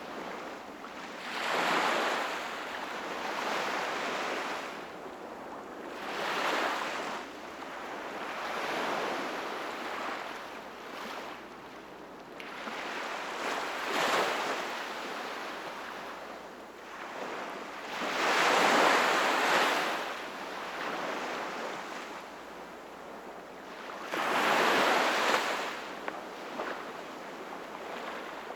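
Small sea waves breaking on the shore, the surf surging and washing back every few seconds, with the louder breaks about 2, 19 and 25 seconds in.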